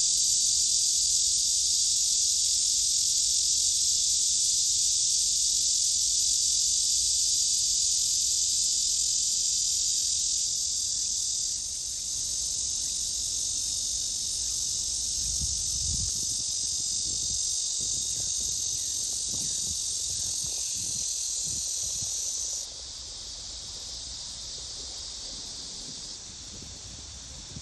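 Black cicada (Cryptotympana atrata) song: a continuous, loud, high-pitched shrill buzz with no pauses. It steps down in loudness twice, about a third of the way in and again near the end.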